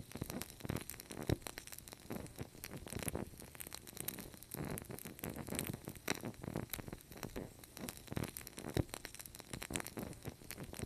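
Wood fire crackling, with dense irregular pops and snaps over a low rumble.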